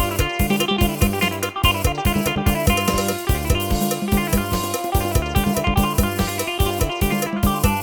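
Yamaha PSR-1000 arranger keyboard playing a Thai folk procession (lai hae) tune, with a drum-kit accompaniment pattern under a plucked-string melody voice, on a steady beat.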